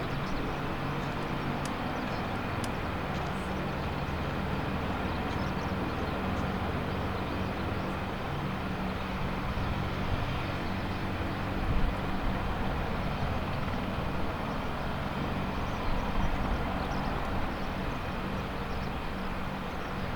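AH-64D Apache attack helicopters running, a steady engine and rotor sound with low, even tones underneath and a brief louder surge about two-thirds of the way through.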